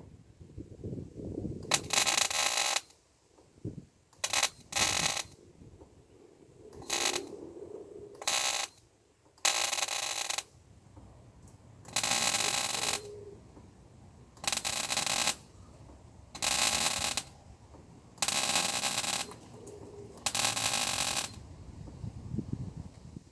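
MIG welder arcing in about eleven short bursts, each well under a second to about a second long, with brief pauses between: tack and stitch welding of a replacement steel sill panel.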